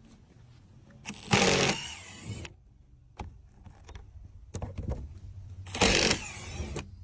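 Two short bursts of a handheld power drill, one about a second in and one near the end, as screws are driven out to free a plywood panel, with light clicks and knocks of handling in between.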